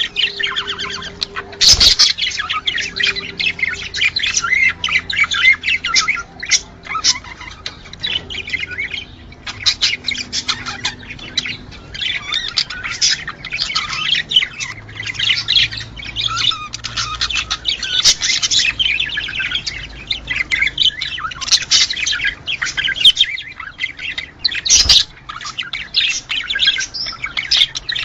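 Budgerigars chattering and warbling, a dense run of fast chirps and squawks with only short breaks. Two brief knocks cut in, about two seconds in and again near the end.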